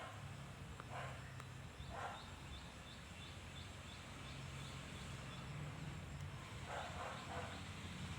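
Short animal calls, singly or in pairs a second or more apart, over a steady low hum; a faint high ticking, about three a second, runs through the middle.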